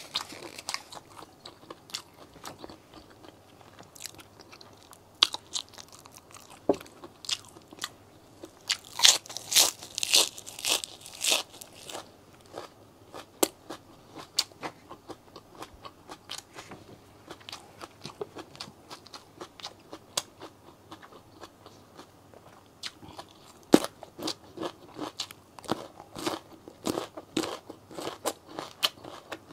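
Close-miked crunchy chewing and biting of food. A run of loud crunches comes about nine to twelve seconds in, with softer chewing after. About twenty-four seconds in a sharp bite starts dense crunching, which is raw cucumber being eaten near the end.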